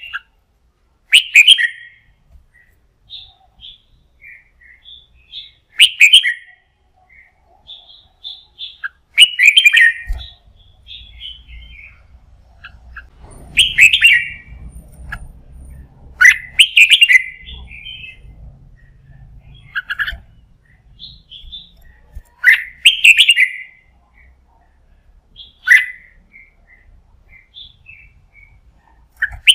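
Red-whiskered bulbul singing: short, loud, chattering song phrases repeated about every three seconds, with softer single chirps in between.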